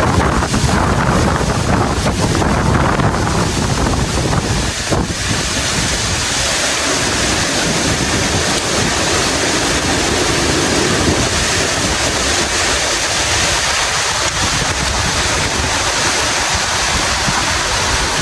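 Heavy tropical rainstorm: a loud, steady hiss of rain with gusting wind. The wind buffets the microphone as a low rumble for the first five seconds or so, then eases and the rain hiss carries on more evenly.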